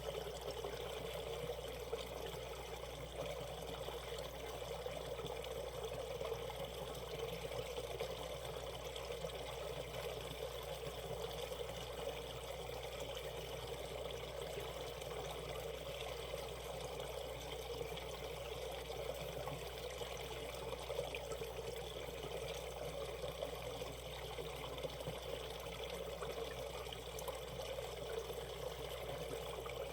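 Shallow valley stream flowing over rocks, a steady trickling and pouring of water.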